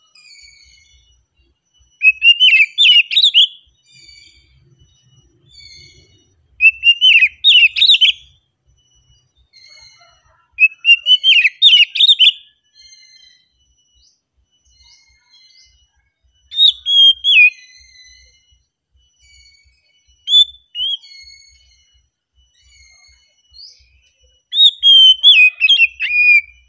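Oriental magpie-robin (kacer) singing: six loud phrases of rapidly changing notes, each a second or two long and a few seconds apart, with soft short notes in between.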